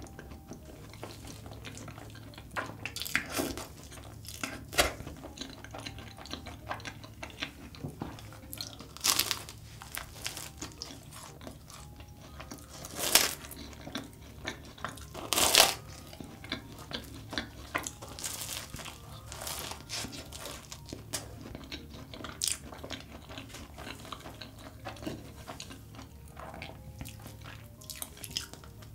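Close-miked eating of large chocolate-topped choux cream puffs: steady wet chewing and mouth sounds, broken by several louder bites spread through.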